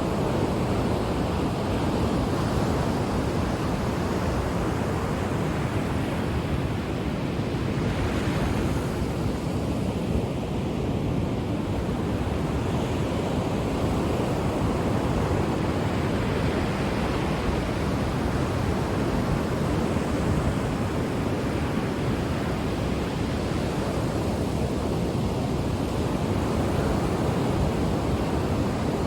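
Ocean surf washing continuously onto a shore: a steady rush of breaking waves that swells gently every few seconds.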